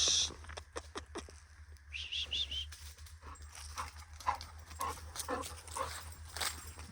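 Sounds of a large dog, an American Bully XL, on the move: a brief loud noise right at the start, then many short repeated noises. About two seconds in there is a quick run of four high chirps.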